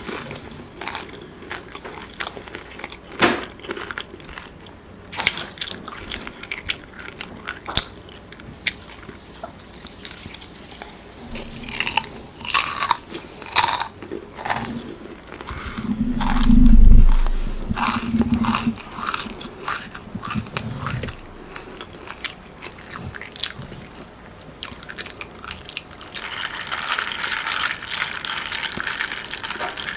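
Close-miked chewing and crunching of fried Chinese takeout food, with wet mouth clicks and smacks. A loud low rumble about halfway through is the loudest moment, and near the end a drink is stirred in a glass with a straw.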